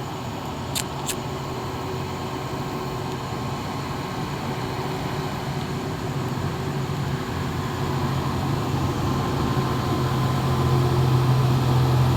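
Heavily loaded Hino truck's diesel engine crawling slowly in low gear, a steady low drone that grows louder as the truck draws near.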